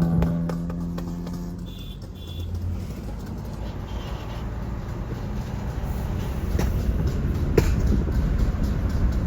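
Modified car engine and exhaust running, a low rumble that grows louder, with a couple of sharp exhaust pops about two-thirds of the way in.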